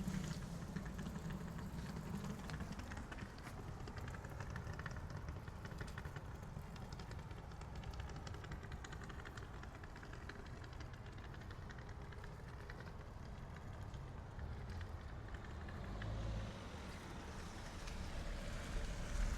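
Night city street ambience: a vehicle engine running steadily with a low hum, and faint light ticks over it.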